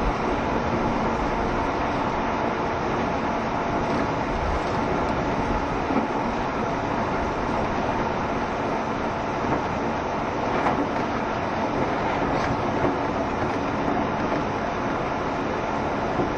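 JR Shikoku 7200 series electric train running between stations, a steady rumble of wheels on rails with a few faint clicks from the track.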